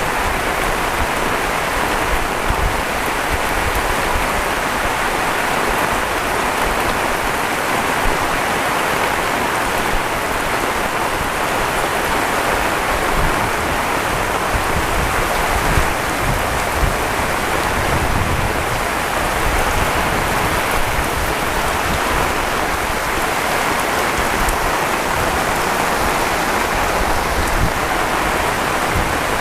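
Heavy rain falling steadily, a dense even hiss with scattered drops striking a surface.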